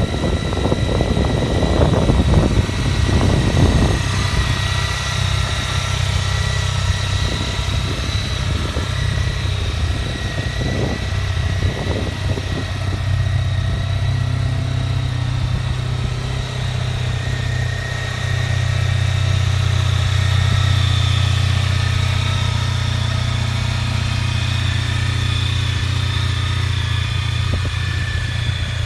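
Honda ST1300 Pan European's 1261 cc V4 engine idling with a steady low note. It sounds rougher and louder in the first few seconds and again briefly near the middle, then settles.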